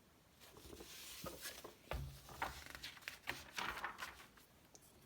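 Magazine pages being handled and turned: a run of soft paper rustles and crisp flicks starting about half a second in.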